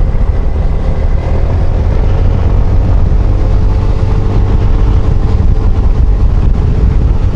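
Yamaha XMAX 250 scooter's single-cylinder engine running at a steady cruising speed, under a heavy, steady wind rumble on the rider's microphone.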